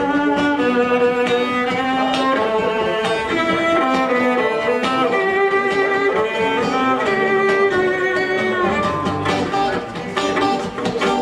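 Violin playing a melody of held notes over a strummed guitar.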